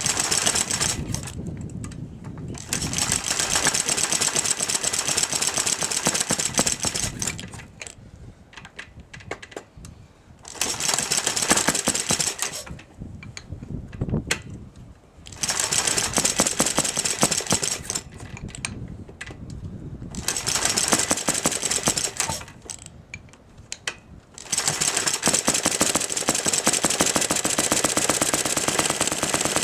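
Single-cylinder gasoline engine of an antique Lindsay air compressor, built from Merkel motor-wheel parts, starting up. It fires in loud runs of rapid exhaust beats broken by quieter lulls, then settles into steady running about five seconds before the end.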